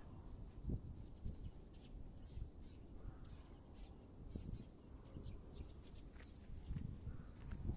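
Small birds chirping in short, irregular high calls over a steady low rumble, with a few dull thumps.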